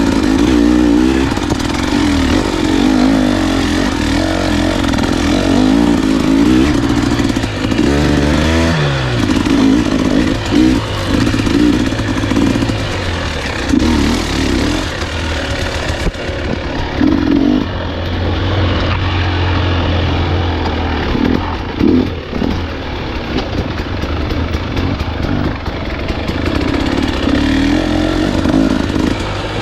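Dirt bike engine running under changing throttle on a trail, its note rising and falling over and over as the rider blips, rolls off and picks up the revs.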